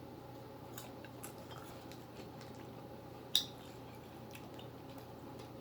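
Faint small clicks and taps of eating at a table, with one sharper click about three and a half seconds in.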